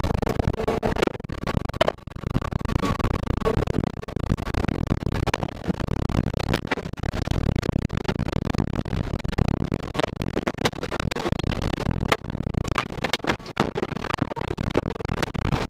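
Tornado-force wind roaring and buffeting the microphone, the level surging and dropping, with many sharp knocks of objects striking throughout.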